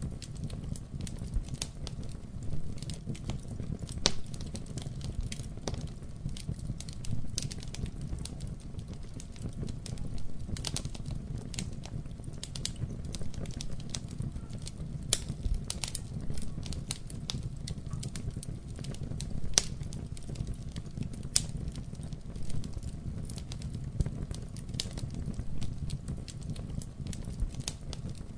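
Wood fire burning in a fireplace: a steady low rumble of flames with frequent irregular crackles and sharp pops throughout.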